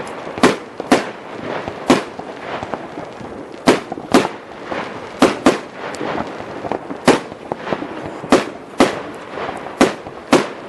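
New Year's midnight fireworks: irregular sharp bangs, about a dozen, over a constant crackle of firecrackers and shells going off around the area.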